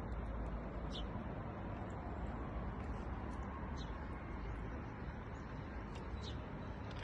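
Steady outdoor rushing noise with faint short high chirps scattered through it, about one a second.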